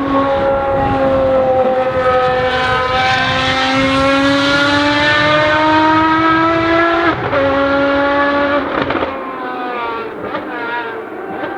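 Ferrari FXX Evo's V12 at full throttle on track. The pitch climbs steadily for several seconds and drops sharply about seven seconds in at an upshift. It then holds, and from about nine seconds in it turns quieter and less clear.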